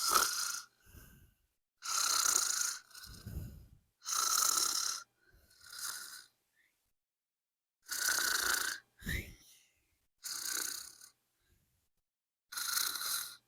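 Pretend snoring by a person: a string of loud, hissing snores about every two seconds, with softer, lower out-breaths between them.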